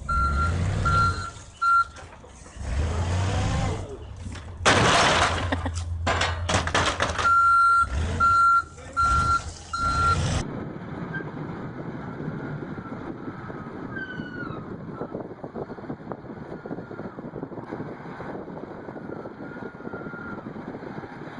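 A heavy truck's reversing alarm beeps about two to three times a second over its running diesel engine, with several loud noisy bursts in the middle. About halfway through, the sound changes abruptly to a steady rumble of engine and wind noise with no beeping.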